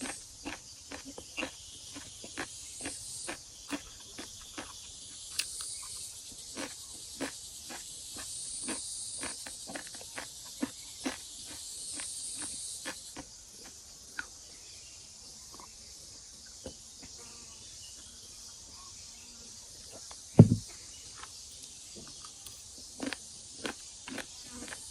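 Insects buzzing in a high, swelling chorus that fades out about halfway through, over a run of light, irregular clicks and taps. There is one loud low thump about 20 seconds in.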